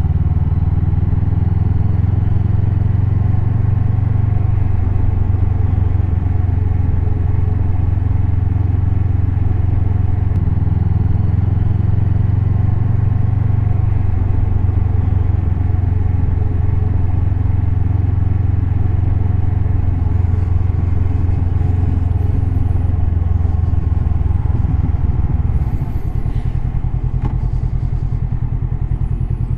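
Honda CB500X's parallel-twin engine running steadily at low revs, its note dropping slightly about 26 seconds in.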